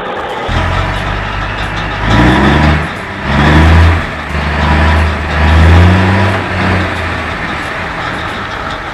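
Heavy vehicle engine revving hard in several surges, its pitch rising with each one, then settling back to a steadier run.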